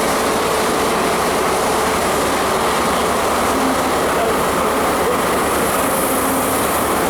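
Train hauled by the steam locomotive 60163 Tornado running past at close range: a steady, loud rushing rumble of the moving train.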